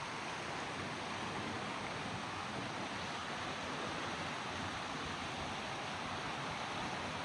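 River water running, a steady even rush of flowing water.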